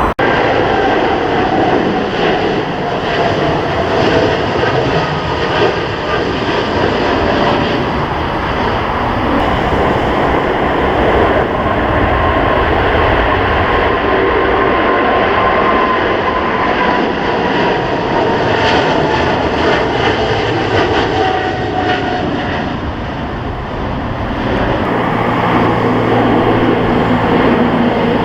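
Jet airliner taking off, a loud steady rush of engine noise with a faint whine that falls slowly in pitch as it passes.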